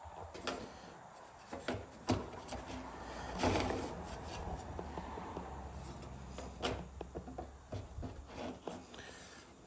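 Workshop handling sounds: scattered clicks and knocks with some rubbing, as wood and tools are moved about, with a louder scraping rub about three and a half seconds in.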